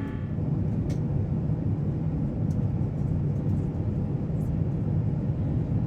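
Steady in-flight cabin rumble of an Airbus A350-1000, the engines and airflow heard from inside the cabin, with a faint click about a second in.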